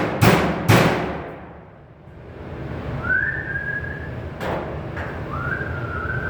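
Two ringing hammer blows on sheet metal in the first second, about two a second, then a person whistles two short steady notes, each with a quick rise at the start. There is a single knock between the notes.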